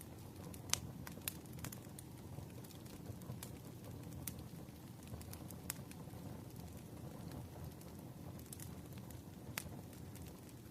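A fire crackling, with scattered sharp pops (the loudest about a second in), over a steady low rush of rain.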